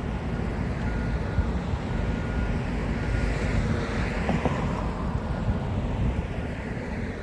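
A vehicle passing by: its noise swells to a peak about four seconds in and then fades, over a steady low rumble.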